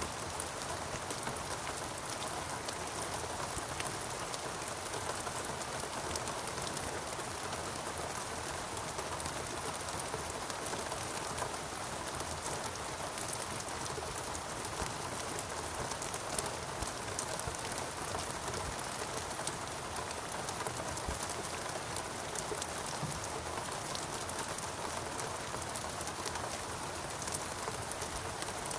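Steady heavy rain: a constant hiss with many individual drops striking close by.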